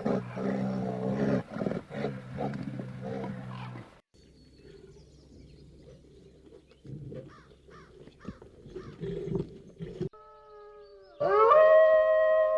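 A string of animal calls. First a deep, loud roaring call for about four seconds, then a quiet stretch with faint high chirps. Near the end comes a loud, long howl with several voices at different pitches.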